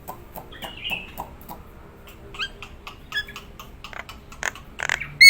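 Jalak nias myna calling in a varied run of sharp clicks and short whistles, with quick rising whistled notes, then its loudest calls near the end, a harsh note followed by a bending whistle.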